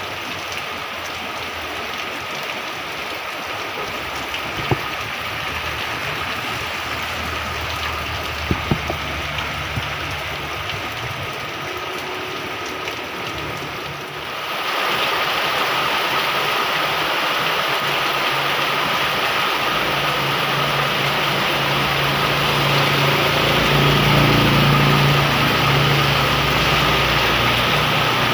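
Heavy rain falling steadily; it gets louder about halfway through. In the second half, a motor vehicle's engine runs steadily beneath the rain, loudest near the end.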